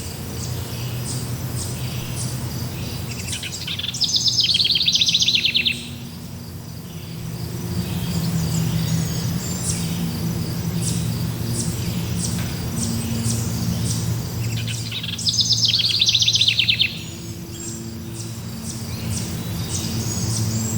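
Forest birds singing: short high chirps throughout, with a louder rapid trilled phrase about four seconds in and again about fifteen seconds in, over a steady low hum.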